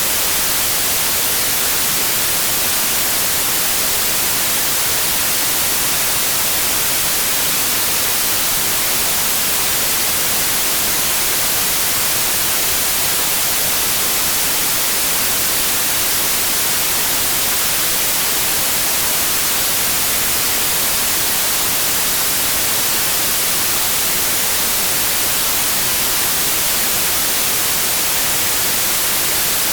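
Steady, unchanging white noise: a loud, even hiss across all pitches, with no tones or changes. It is played as a sleep aid for colicky babies.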